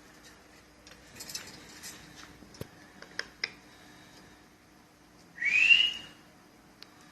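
Ringneck parrot giving one loud whistle, about half a second long, that rises and then levels off, about five and a half seconds in. Before it come a few faint clicks and taps.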